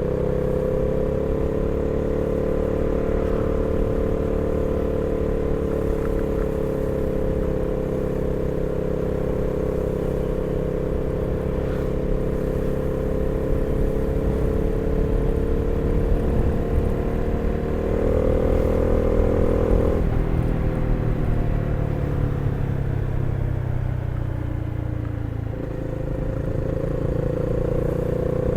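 Honda CB300R's single-cylinder engine pulling at steady road speed, with wind rumble on the microphone. About two-thirds of the way through, the revs step up briefly, then the engine note falls steadily as the bike rolls off the throttle and slows, and near the end it picks up again.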